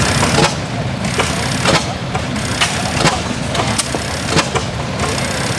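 Turn-of-the-century 12 HP Reid two-stroke oil field engine running slowly, with a sharp exhaust bang about every two-thirds of a second.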